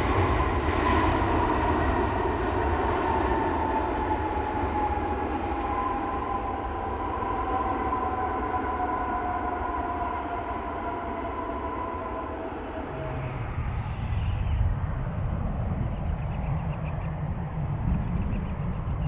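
Jet airliner engines: a loud whine with two tones sliding slowly down in pitch over a broad rumble as the aircraft passes and draws away. About 13 seconds in, the sound changes abruptly to a duller, deeper rumble.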